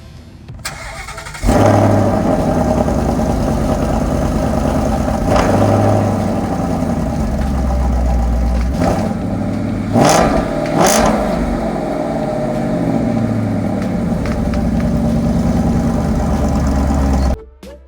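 2017 Ford Mustang GT's 5.0-litre V8 running, its pitch rising and falling with the revs. It comes in suddenly about a second and a half in, gives two quick sharp revs around ten and eleven seconds, and cuts off shortly before the end.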